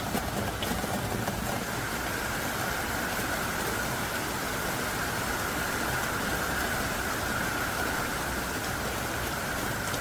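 Heavy downpour of thick raindrops falling hard and steadily, an even rushing hiss with no letup.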